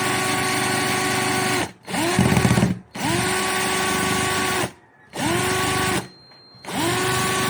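A power drill spinning the shaft of a Nissan Sentra distributor on the bench in five short runs, each whine rising quickly in pitch as the motor spins up and then holding steady, with brief stops between, while the distributor's ignition trigger is tested.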